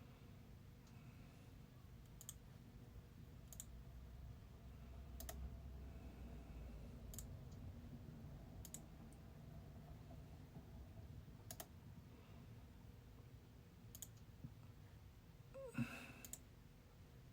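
Near silence: room tone with a faint low hum and scattered faint sharp clicks every one to three seconds. Near the end comes a short voice sound falling in pitch, like a sigh.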